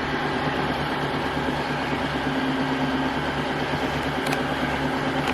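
Tineco iFloor S3 wet-dry vacuum mop running its self-cleaning cycle in the dock: the suction motor and brush roller running with a steady hum.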